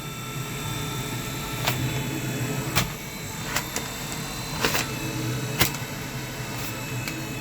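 Electric engine-room exhaust fan on a boat running with a steady hum, drawing air out through its ductwork. A handful of sharp crackles comes from a piece of paper held to the intake as the suction pulls at it, showing the fan is working.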